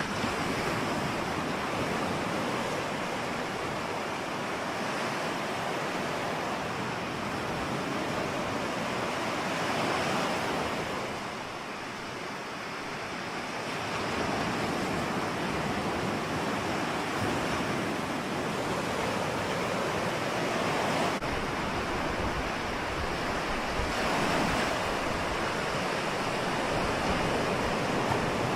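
Ocean waves breaking and washing on the shore in a steady wash that swells and eases every few seconds, with wind rumble on the microphone.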